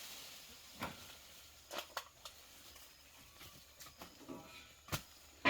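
A handful of scattered light knocks and clicks, a second or more apart, ending in a short louder noisy burst.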